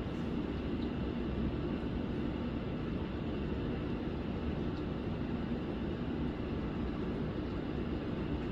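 Thunderstorm: a steady low rumble with no distinct claps.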